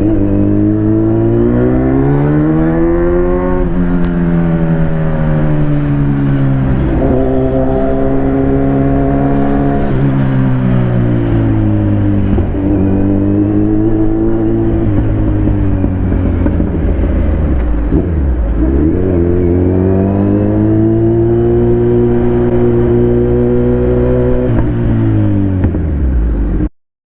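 Kawasaki Z900's inline-four engine running under way, its revs rising and falling several times as the rider opens and closes the throttle. The sound cuts off suddenly near the end.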